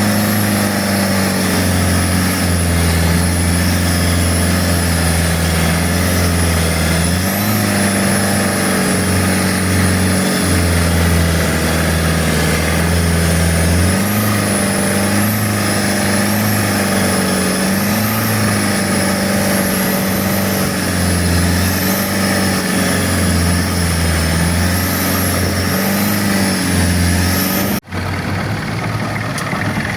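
Boat engine running under way, its steady note rising and falling in pitch every few seconds over a rush of wind and water noise. Near the end the sound cuts out for an instant and comes back quieter.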